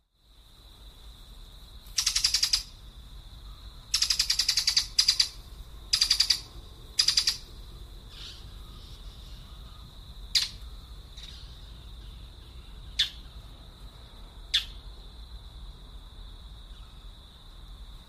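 A bird calling: four loud, fast rattling bursts in the first half, then three single sharp down-slurred chirps, over a steady high-pitched tone.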